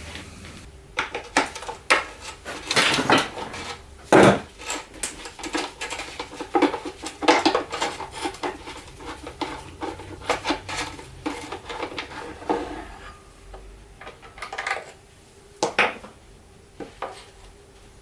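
Metal parts and tools clinking and clattering as they are handled during a transmission teardown, busy for most of the time, then a few separate knocks near the end.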